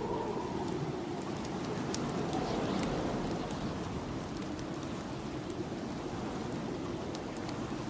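Snowstorm wind blowing steadily, a low rush whose pitch slowly wavers, with scattered sharp crackles of a wood fire burning in a fireplace.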